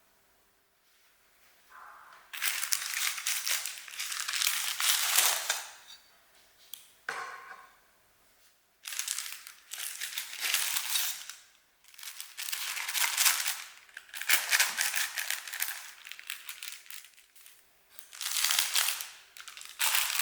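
Fabric or paper being handled and crinkled in a series of rustling bursts, each a second or a few seconds long, with short pauses between them.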